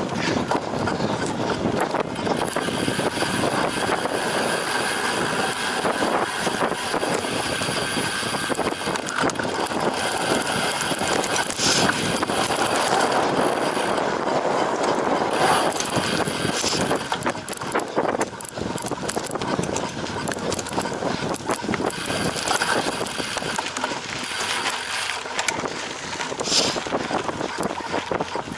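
Cyclocross bike ridden at race pace over rough ground: a continuous rattle and rumble of tyres and drivetrain, with a few brief high squeaks.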